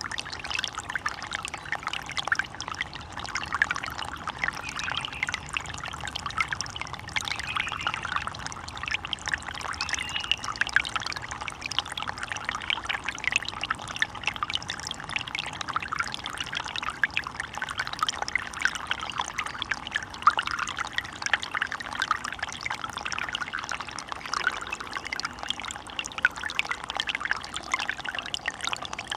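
Running water in a stream, splashing and trickling steadily.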